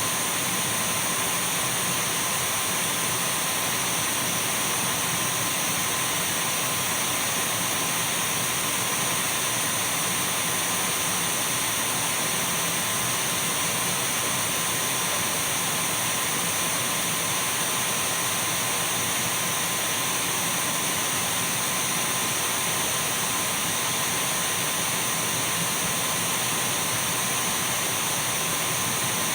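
Dyson V12 cordless stick vacuum running continuously at constant speed: an even rushing hiss of air with a thin, high-pitched motor whine and a fainter steady tone in the middle register.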